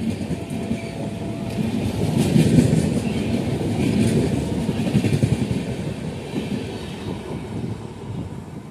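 Indian Railways LHB passenger coaches rushing through a station at speed, wheels clattering over the track. The rumble swells from about two to five seconds in and fades toward the end.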